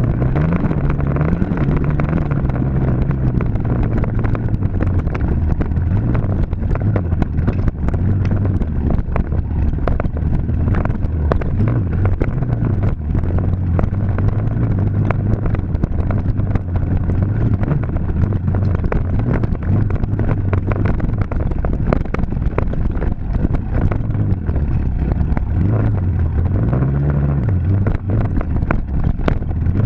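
Dirt bike engine running hard, its pitch rising and falling with the throttle, with frequent knocks and clatter throughout.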